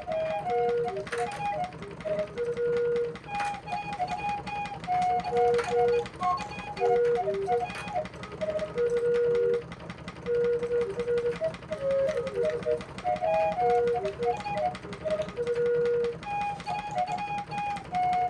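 Black Forest 26-pipe flute clock playing a tune on its low-pitch pipes: a melody of short, evenly spaced flute notes over a steady mechanical clatter from the clock's works. The owner says the old pipes play below their best in dry winter air.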